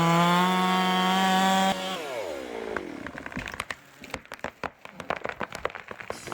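Chainsaw running at full throttle with a steady high whine, then let off about two seconds in, its pitch falling away. It is followed by a scattered run of sharp crackles and snaps.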